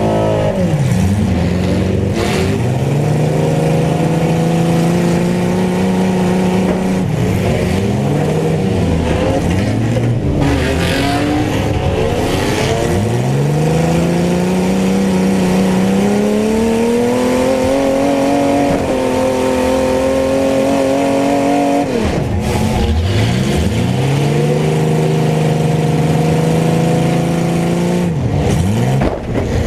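Mini truck engines revving hard, their pitch climbing as they accelerate and dropping away when they lift off, over and over, with more than one engine heard at once at times.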